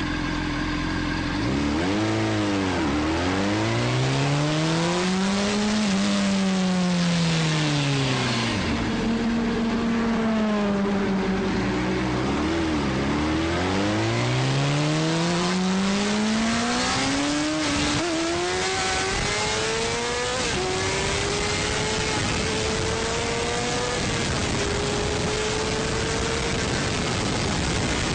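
Sport motorcycle engine accelerating hard through the gears, its pitch climbing and dropping back at each shift, then easing off before a second run up through the gears. In the last part it holds a nearly steady pitch at cruising speed, with a constant rush of wind.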